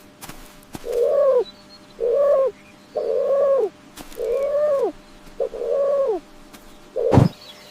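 An animal calling five times, about once a second, each call a short pitched note that rises a little and drops sharply at its end. A brief noisy knock comes near the end.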